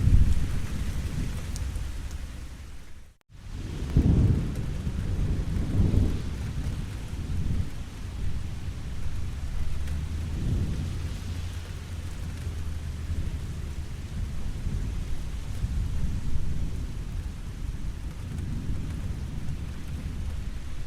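Steady rain falling, with deep low rumbles that swell and fade several times. The sound cuts out for a split second about three seconds in.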